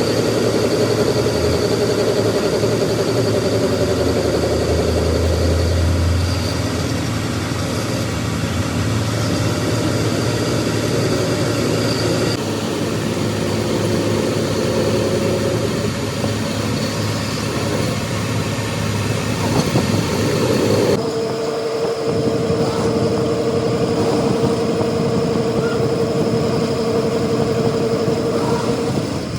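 Machinery running steadily, with abrupt changes in its sound about 12 and 21 seconds in; from the last change on, a steady humming tone runs through it.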